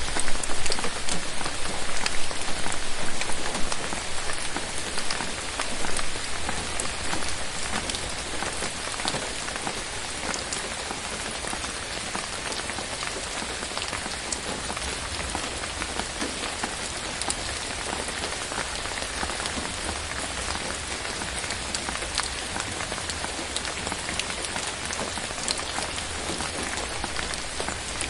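Steady rain falling, a dense even hiss flecked with many separate drop ticks. It is heavier for the first few seconds, then eases to a lower, even level.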